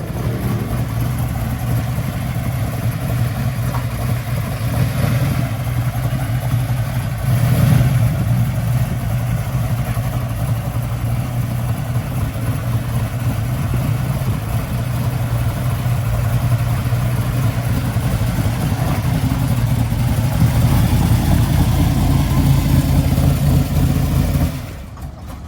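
Muscle car engine running with a steady low rumble, swelling briefly about seven seconds in and dropping away near the end.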